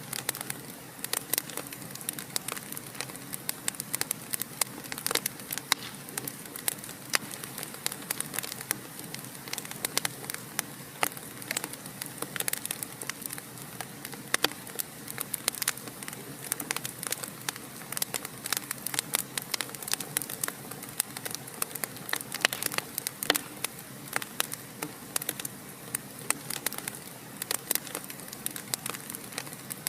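Fire in a fireplace crackling: many quick, sharp snaps, several a second, over a steady soft hiss.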